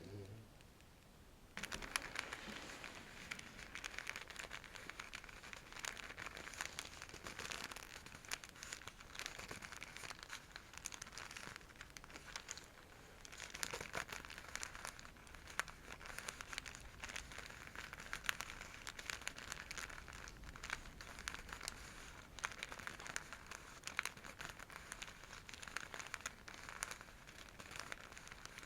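Scratchy silk bag being scrunched and scratched: a dense crinkling that starts about a second and a half in, with a short lull about halfway through.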